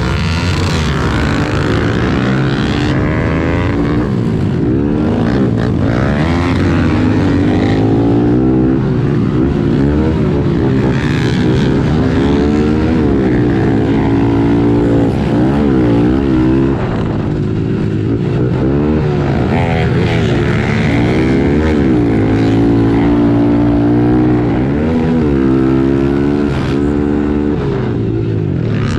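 Small 110cc four-stroke pit bike engines racing. Their revs climb and drop over and over as the riders open the throttle, shift and back off around the track.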